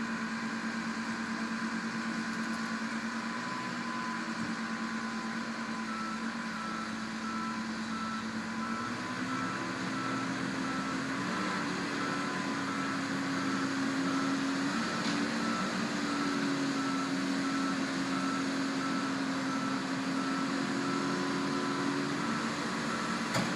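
Truck engine running under steady throttle while stuck, its pitch rising about nine seconds in as it is revved harder. From about six seconds in, a reversing alarm beeps at an even pace as the truck tries to back out.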